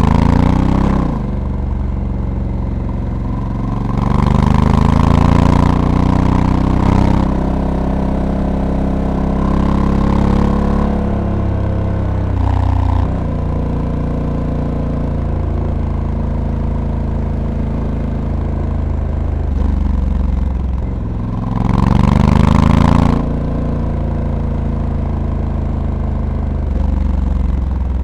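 Honda Africa Twin Adventure Sports DCT's 1084 cc parallel-twin engine under way, rising in pitch as it pulls and falling as it eases off, several times over. One climb late on ends in a sudden drop in pitch as the dual-clutch gearbox shifts up. A louder rush of wind comes with the harder pulls.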